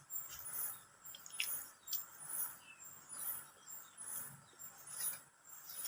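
Insects chirring in a high-pitched pulsing chorus, about two pulses a second, with a few faint sharp clicks.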